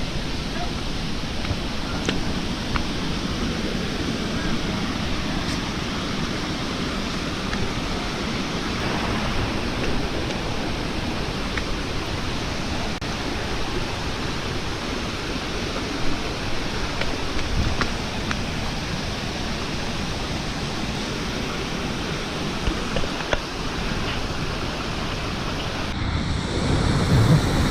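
Waterfall: a steady rush of falling water, growing louder and deeper near the end.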